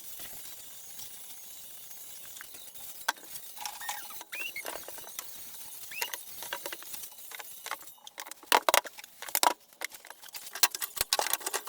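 Irregular clicks and taps of small hard pieces being handled, with two short squeaks. The tapping grows denser and sharper in the last few seconds.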